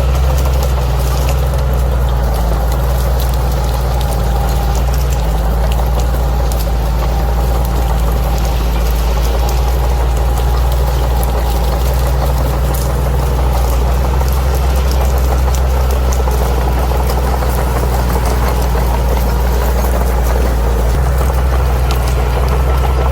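Bulldozer's diesel engine running with a steady low drone under a faint steady whine, with scattered light clicks above it.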